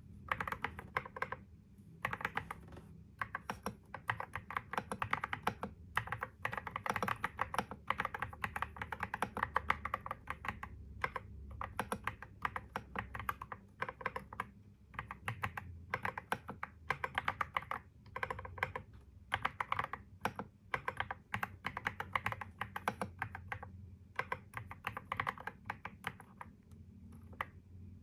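Typing on a computer keyboard: quick runs of keystrokes broken by short pauses every few seconds.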